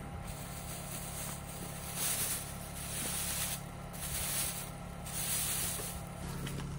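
Vehicle engine running with a steady low hum, with several swelling whooshes of passing traffic going by.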